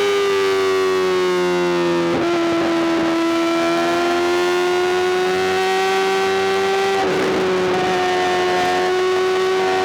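Honda CBR1000RR-R SP's inline-four engine through a full Arrow GP exhaust, running hard at high revs. There are two brief breaks in the note, about two and seven seconds in, each followed by a slightly lower pitch, as on upshifts.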